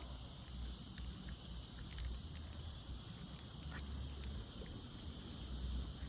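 Steady high-pitched insect chorus, with uneven low wind rumble on the microphone and a few faint ticks.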